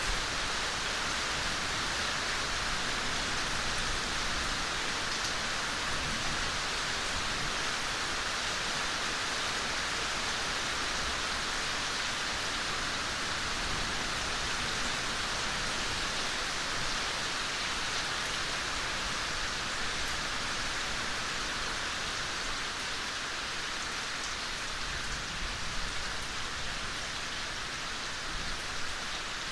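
Steady, gentle rain falling on foliage, an even hiss with faint scattered drop ticks.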